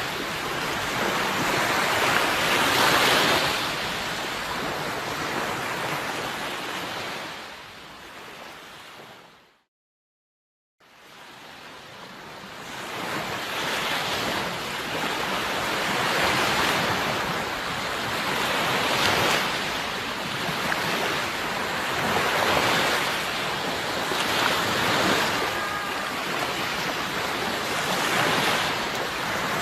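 Sea waves washing in, swelling and falling back every few seconds. About eight seconds in the sound fades out to a second of silence, then fades back in.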